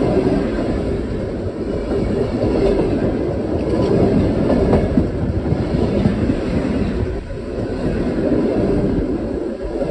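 Railway passenger coaches rolling past at rail level, their steel wheels and bogies making a steady, loud rumble with occasional clacks over the rail joints.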